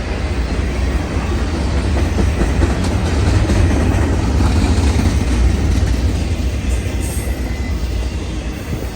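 A train rolling past, a heavy steady rumble that builds to its loudest about halfway through and eases off slightly toward the end.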